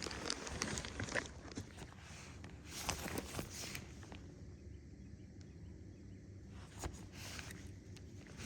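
Scattered clicks and rustles of hands working in a fishing boat, bunched in the first second, around the middle and near the end, over a steady low rumble of wind.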